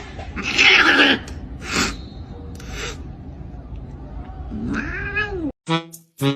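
Domestic cat meowing, with one long rising-and-falling meow about five seconds in after a few short, harsher sounds.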